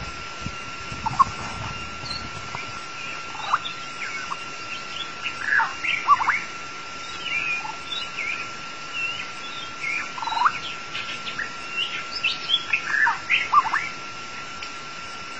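White-rumped shama singing: scattered short whistled notes and quick rising and falling phrases. A steady thin high tone runs underneath.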